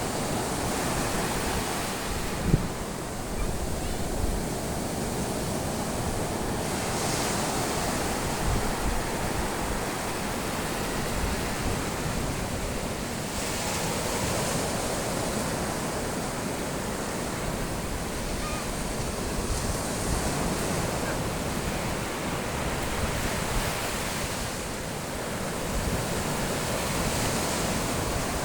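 Sea waves washing onto the shore, a surge of surf about every six to seven seconds over a steady rush of water. There is one short knock about two and a half seconds in.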